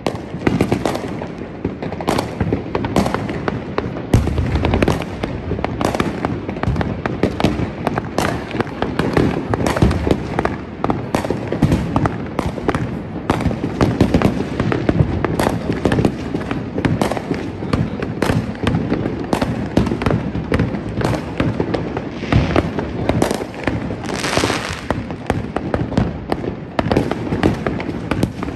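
Neighbourhood fireworks going off without a break: many overlapping bangs, pops and crackles from shells and firecrackers near and far, with a longer hissing crackle near the end.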